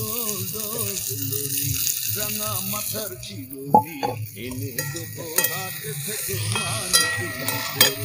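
Chopped flat beans sizzling in hot oil in a metal wok, the hiss strongest in the first few seconds after they go in. A few sharp clinks of utensils come in the second half, over quiet background music.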